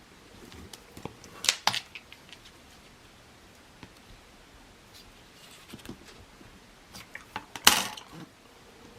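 Card and paper crafting materials being handled on a table: a few light clicks and taps, and one short, louder scrape or rustle about three-quarters of the way through.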